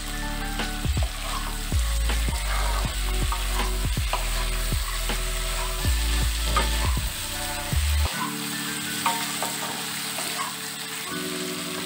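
Masala-coated beetroot, carrot and potato pieces sizzling in oil in a non-stick kadai as a wooden spatula stirs and scrapes them, with frequent knocks of the spatula against the pan. This is the masala being sautéed down on medium heat.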